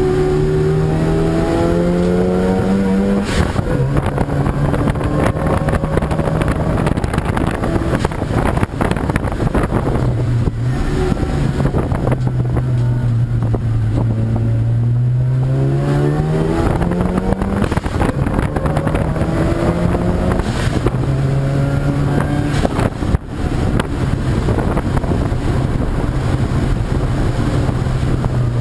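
Racing car engine under hard load, its pitch climbing in steps with sudden drops at gear changes, easing down and back up through corners.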